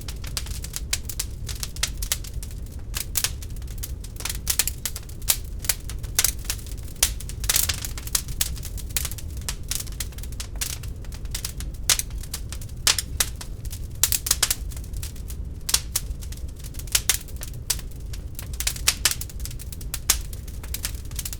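Wood fire burning in an open fireplace: many irregular sharp crackles and pops over a low steady rumble of the flames.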